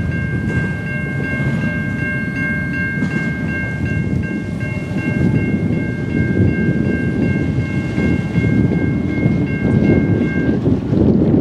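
Train passing with a continuous low rumble. Over it rings a steady high tone, re-struck about twice a second, which stops shortly before the end.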